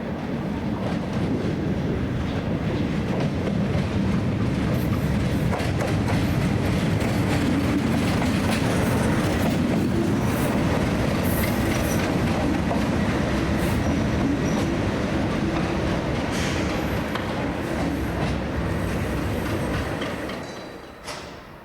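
A train passing, its wheels clattering over the rail joints in a loud, steady rush that drops away near the end.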